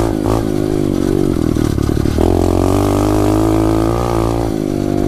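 SSR 125 pit bike's single-cylinder four-stroke engine running hard while being ridden around a dirt track. The throttle opens sharply about two seconds in and is shut off again near the end, ahead of a downshift.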